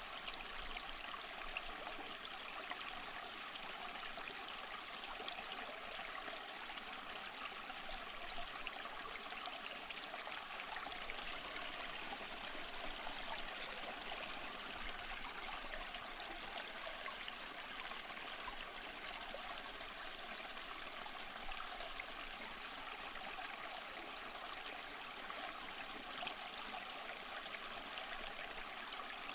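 Running water, a steady unbroken rush with little low rumble.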